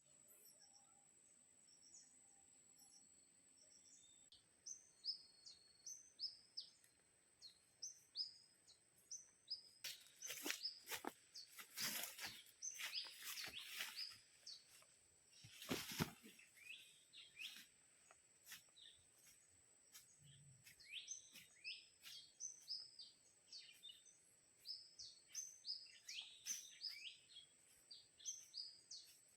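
Forest birds chirping, many short falling chirps. A steady high whine runs for the first few seconds, and a cluster of sharp clicks and rustles comes about halfway through.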